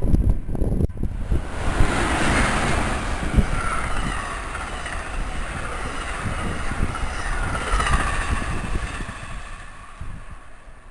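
Electric train passing through the station: a steady rumble and rush of wheels on rail, with whining tones that slide in pitch, fading away near the end.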